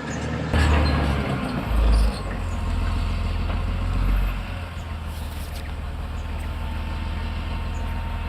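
Caterpillar D6R XL bulldozer's diesel engine running under load, surging louder a few times in the first four seconds before settling to a steady run, with a few short knocks.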